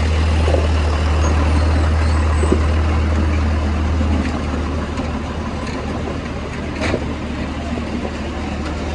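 Farm machinery engine running steadily with a deep, even hum that eases slightly about four seconds in, plus a couple of faint ticks near the end.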